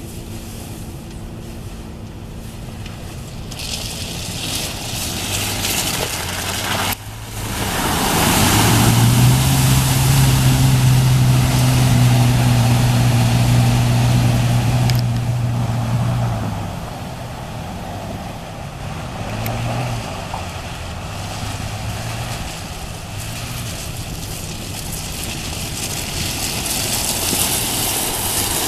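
Toyota FJ Cruiser's 4.0-litre V6 engine running as the truck drives through lake water, with a steady rush of splashing water. About eight seconds in, the engine note gets much louder and holds steady for several seconds, then drops back.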